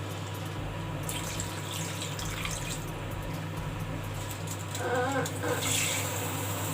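Water running and pouring, as when a cup or the cooking pot is filled with water for boiling chicken.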